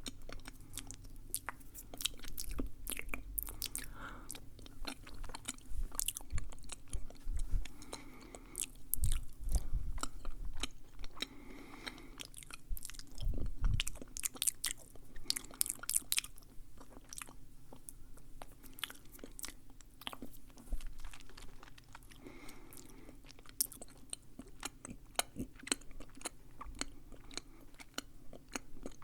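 Close-miked ASMR mouth sounds: a steady stream of irregular wet clicks and smacks from lips and tongue, with chewing-like nibbling and a few soft low thumps.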